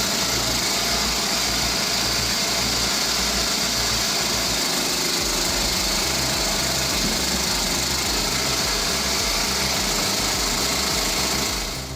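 A small engine running steadily with a hissing, even drone, fading out near the end.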